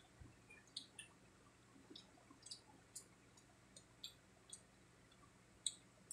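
Quiet eating sounds: about a dozen short, crisp clicks and wet mouth smacks from chewing crispy fried pork cheek, the loudest near the end.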